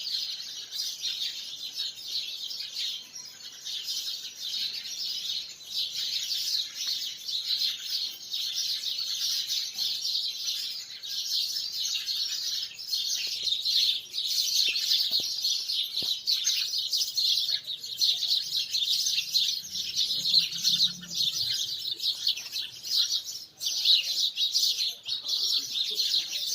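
Many small birds chirping and twittering at once, a dense, overlapping chatter that goes on without a break.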